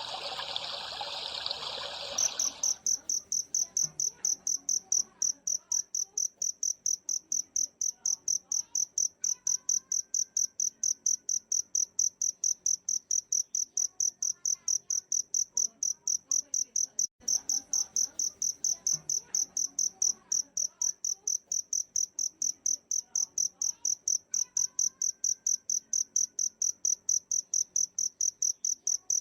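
Water trickling for about two seconds, then a cricket chirping in a steady, even rhythm of about four high chirps a second, with faint bird calls underneath.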